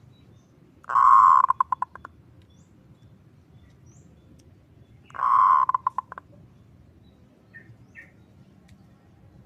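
Zebra dove (perkutut) cooing twice, about four seconds apart. Each phrase is a loud coo followed by a quick stuttering run of short notes.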